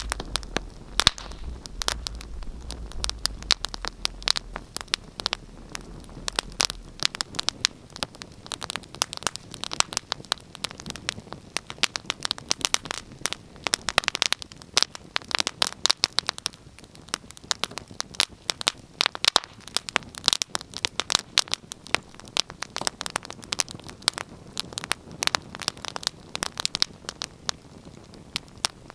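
Wood fire crackling in a fireplace: dense, irregular pops and snaps over a steady hiss. A low rumble sits under it for the first several seconds.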